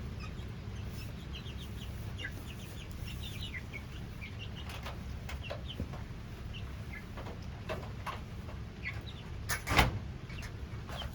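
Young chickens peeping and chirping in many short, high calls over a low steady rumble, with one sharp thump near the end.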